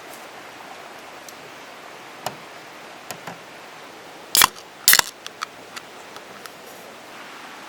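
A few sharp clicks and two louder knocks close together about halfway through, then several small ticks, over a steady hiss.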